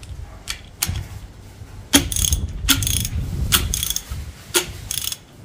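Hand ratchet wrench clicking in short, irregular strokes at the camshaft timing gears of a 2AZ-FE cylinder head.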